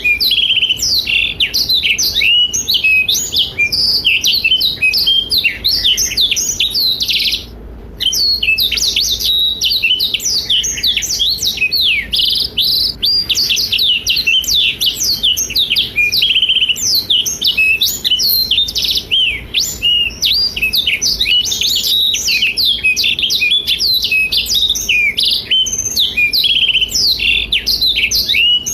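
Blackthroat (black-throated canary) singing a long, fast, unbroken stream of twittering chirps and trills, with one short pause about seven and a half seconds in.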